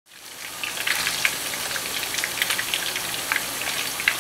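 Trout cakes frying in hot oil in a nonstick pan: a steady sizzle with many quick crackling pops. It fades in over the first half-second.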